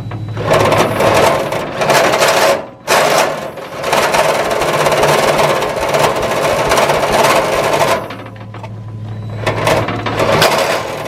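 Case 224 garden tractor engine being cranked over by its starter in several long bursts with short pauses between, not yet firing, as it tries to draw fuel through a newly fitted fuel pump.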